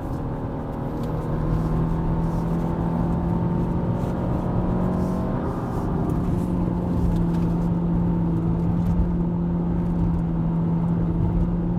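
Hyundai Avante (CN7) 1.6 petrol engine driving through its CVT, heard inside the cabin: a steady drone that holds nearly constant pitch under load, over low road rumble.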